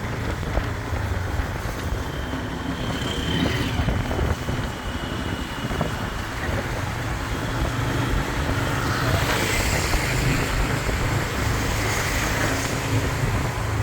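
Motorbike running steadily at riding speed, heard from the pillion seat, with a continuous low rumble and passing traffic noise.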